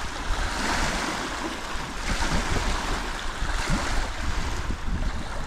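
Wind gusting against the microphone, with a rumble that comes and goes, over a steady rush of small lake waves washing on the shore.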